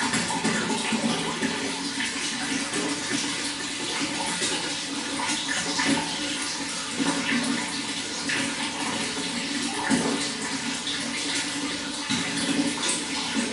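Running water flowing and splashing steadily, with small irregular gurgles.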